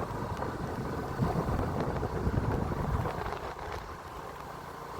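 Wind buffeting the microphone: an irregular, gusty low rumble that is strongest in the first three seconds and eases off near the end.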